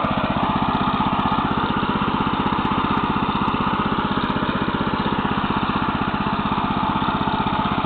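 Neva MB-2 walk-behind tractor's engine running steadily at constant speed as its tiller cutters work manure into the soil. The engine is new and is being run in.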